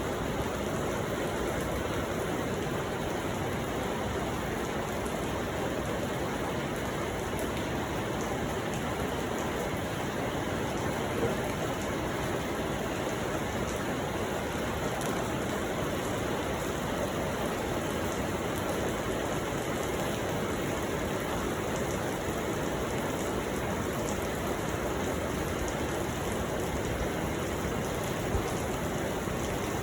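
Steady rain falling, an even hiss with a couple of louder single drop ticks.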